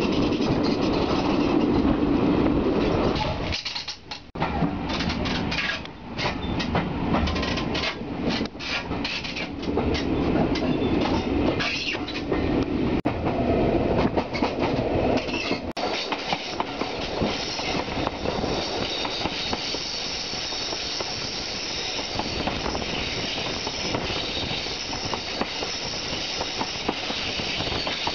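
A steam-hauled passenger train's carriages running along the track, heard from an open window: a steady rumble of the wheels with rapid clicks over the rail joints, which drops away briefly about four seconds in.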